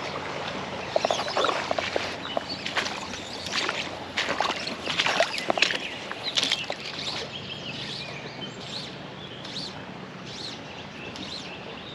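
Creek water splashing and sloshing in short irregular bursts, most of them in the first half. Short high bird chirps repeat through the second half.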